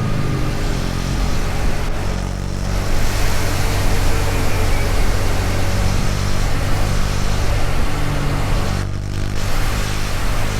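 KTM Duke 250's single-cylinder engine running at road speed under a steady rush of road noise. The engine eases off briefly about two seconds in and again near the end, then picks up.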